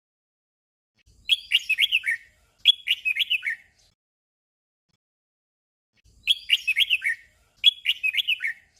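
Red-whiskered bulbul singing its short song as a doubled phrase: a quick run of four or five bright, bending notes, repeated straight away. The doubled phrase comes once about a second in and again about six seconds in.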